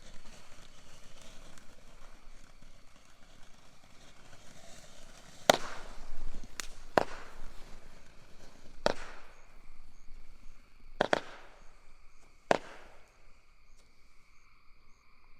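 'Desert at Night' consumer firework cake firing its shots: about seven sharp bangs, irregularly spaced, starting about five seconds in and ending a couple of seconds before the end.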